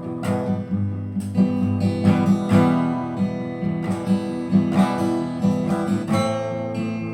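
Instrumental music: acoustic guitar strummed in a steady rhythm between sung verses.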